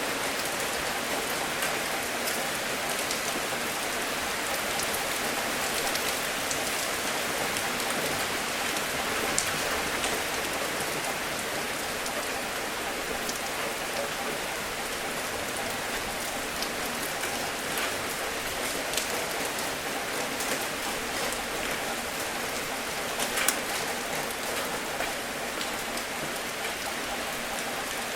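Steady rain falling, an even hiss with scattered sharper drops ticking through it; a few single drops stand out louder.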